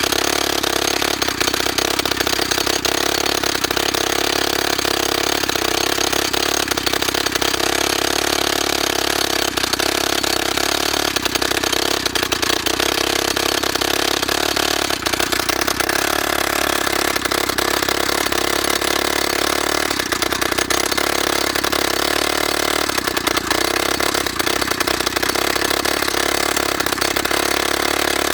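YN30A mini rock drill, a two-stroke petrol machine, running steadily and loud without letup.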